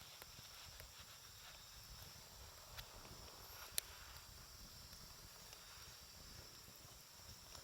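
Wood campfire burning quietly, with faint crackles and an occasional sharp pop, the loudest about four seconds in.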